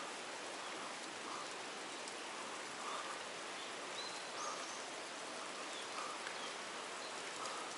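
Steady hiss of water: rain falling on a creek and its wet bank, together with the creek running over a small spillway. A few faint short chirps sound over it.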